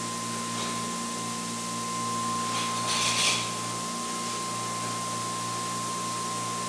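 Motor-driven generator test rig running steadily, with a constant whine over a low hum. A brief rustling hiss comes about three seconds in.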